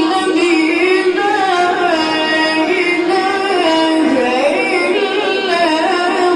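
A child's voice chanting Quran recitation in melodic tajweed style, holding long notes with ornamented turns in pitch.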